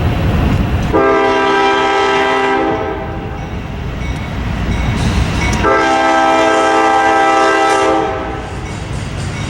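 Diesel locomotive air horn sounding two long blasts, each about two seconds, over the low rumble of the train.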